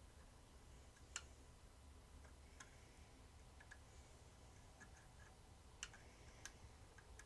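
Near silence with a few faint, sharp clicks spaced irregularly, typical of a small plastic toy being handled and worked on.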